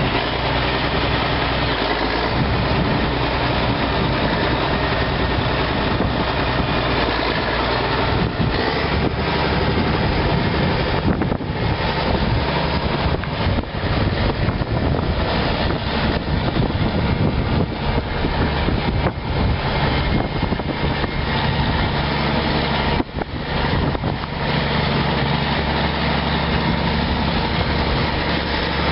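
Tractor engine running loudly and steadily under a dense, rushing noise, with the low engine note fading and returning over the stretch.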